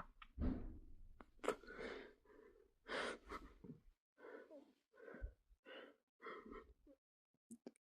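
A dog breathing heavily in a series of short, uneven breaths.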